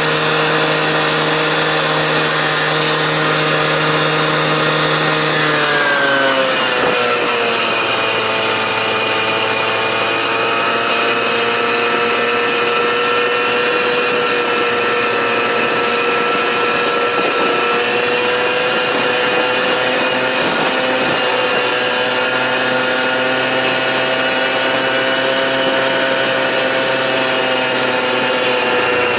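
Gas-powered cut-off saw running at high speed; about six seconds in its pitch drops and holds lower, as when the blade bites into the pipe under load.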